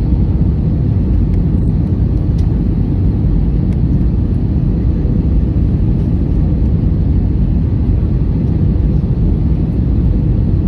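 Airliner noise: a steady low rumble of engines and airflow, unchanging throughout.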